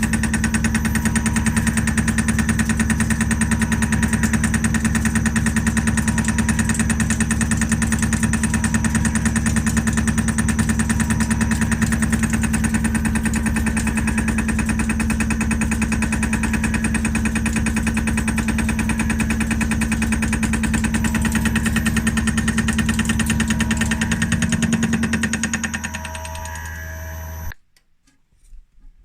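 CNC milling machine cutting steel: a loud, steady machining sound with a strong hum and a fast, even chatter. It changes and fades about 25 seconds in, then cuts off suddenly near the end.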